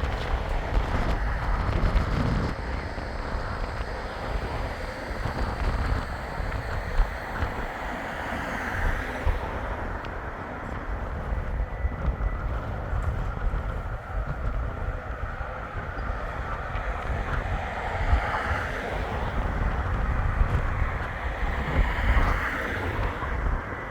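Strong wind rumbling on the microphone, with a Bombardier Flexity 2 tram running past underneath it; the noise swells a few times.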